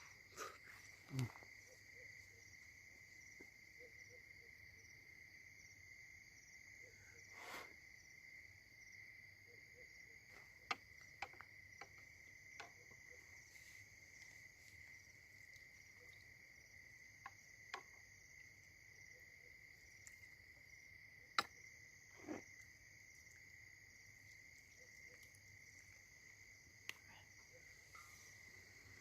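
Crickets chirping in a faint, steady high trill, with a few scattered short clicks and knocks.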